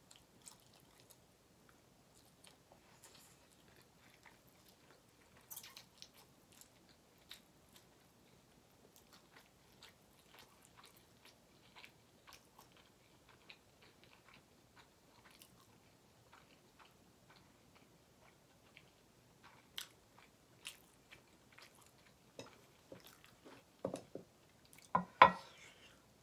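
Quiet chewing and mouth sounds of someone eating ramen noodles, with soft scattered clicks. A few louder knocks come near the end.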